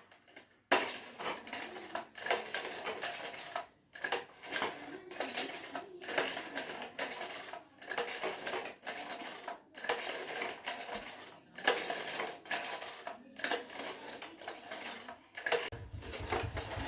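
Hand work on metal engine parts: irregular metallic clinks, taps and scrapes in quick runs with short pauses. A low steady hum starts near the end.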